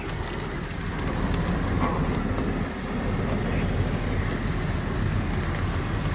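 Land Rover Discovery 3 idling with its air conditioning blower on full: a steady rush of air over a low engine hum. A few light knocks come as the driver climbs out of the car.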